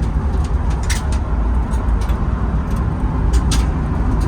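A car on the move: loud, steady low road rumble with scattered clicks and rattles, heard from inside the stripped race car.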